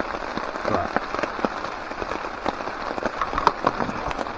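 Rain falling, with drops pattering irregularly on a tarp overhead.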